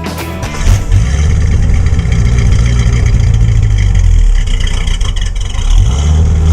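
A 1967 Oldsmobile 442's 400 cubic inch V8 running loud with a low rumble, easing off about four seconds in and picking up again near the end. The tail of a rock music track fades out in the first half second.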